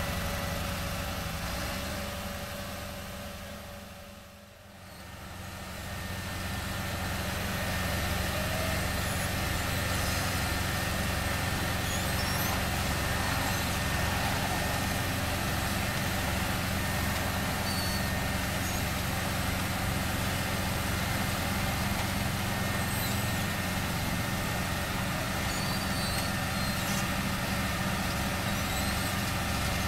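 Heavy diesel engines of asphalt-paving machinery running steadily. The sound fades down and back up about four seconds in.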